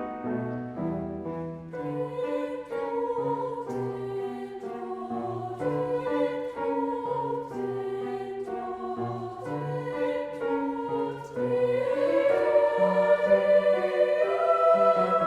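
Choir singing with instrumental accompaniment, a moving bass line under held chords, swelling louder about twelve seconds in.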